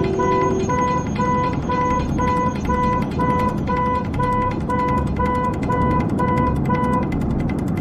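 Electronic alarm beeping steadily about twice a second over a low rumbling noise; the beeping stops about seven seconds in.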